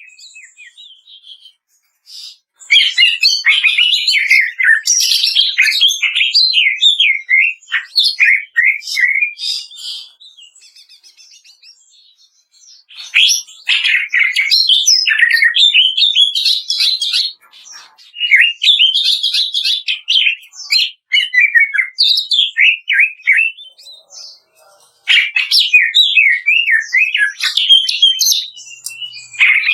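Greater green leafbird (cucak ijo) singing loud, fast phrases of rapid chattering and warbling notes, the crackling 'kretekan' song. It comes in four long bursts with short pauses between them.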